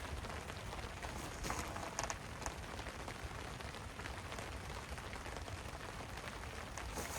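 Steady rain falling and pattering on surfaces, with a few brief rustles of handled gear about one and a half to two and a half seconds in.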